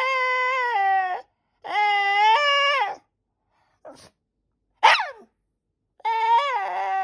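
White Shiba Inu whining and yowling to demand a snack: two long, drawn-out whines in the first three seconds, the second stepping up in pitch partway through. A short yelp that drops sharply in pitch comes about five seconds in, and another long whine starts near the end.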